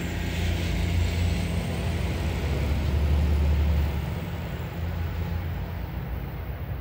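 Steady low rumble of an approaching freight train still out of sight, with a faint high wheel squeal on the curve in the first couple of seconds.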